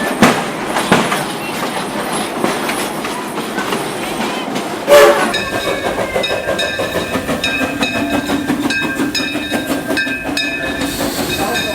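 Narrow-gauge steam train and its passenger cars rolling along the track, with clickety-clack and a few sharp knocks, the loudest about five seconds in. After that knock, several high, steady squealing tones run on over the rumble of the train.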